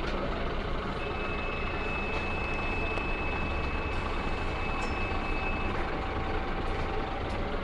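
Van Hool A320 city bus heard from inside the passenger cabin, with steady engine and road noise. A single high electronic beep starts about a second in and holds steady for about five seconds.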